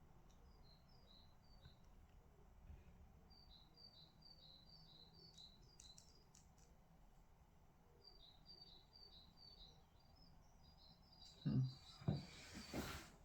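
Faint bird chirping: runs of short, high chirps, several a second, coming three times over quiet room tone. Near the end, a few louder rubbing and knocking sounds.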